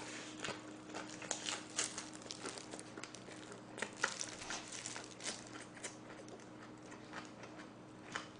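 A person chewing a big mouthful of lettuce wrap with pork trotter (jokbal ssam), giving soft, irregular crunches and wet mouth clicks.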